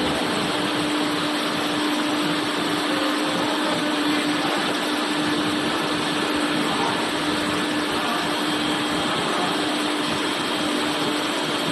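Steady whirring machine noise with a constant low hum, unchanged throughout.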